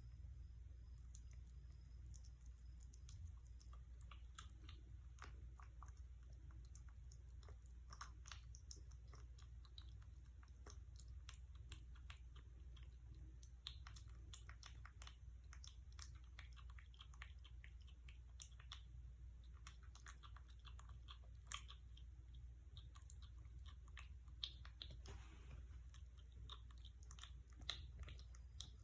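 Kitten chewing food: faint, irregular small clicks and crunches over a low hum.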